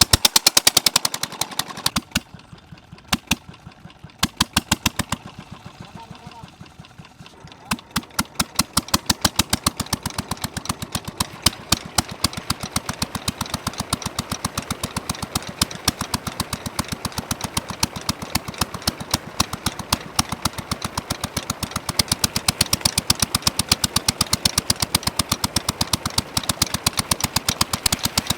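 Petter diesel engine running with a rapid, even chug of exhaust beats. It fires strongly at first, falters for a few seconds with weaker, sparser beats, then picks up about eight seconds in and runs steadily.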